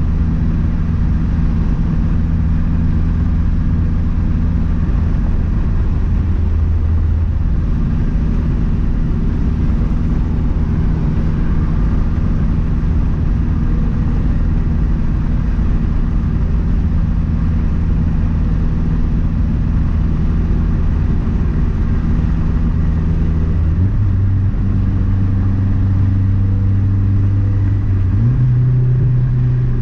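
A 2012 Mazdaspeed 3's turbocharged 2.3-litre four-cylinder, fitted with a big turbo, running steadily while the car is driven. Engine speed steps up twice near the end.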